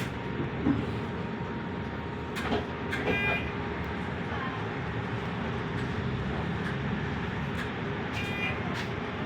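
Scania K230EB electric bus running, a steady noise with a faint even hum. Two brief high-pitched tones sound at about 3 seconds and again near 8 seconds.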